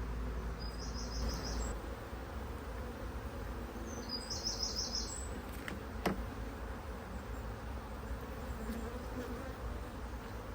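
A mass of honeybees buzzing steadily around an open, crowded hive. A short high chirping series sounds twice, and there is one sharp click about six seconds in.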